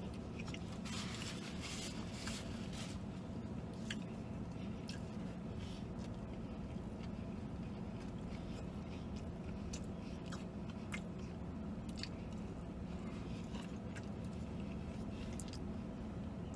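A person chewing a mouthful of crispy fried chicken sandwich (Burger King spicy chicken), with crunches and mouth clicks now and then over a steady low hum.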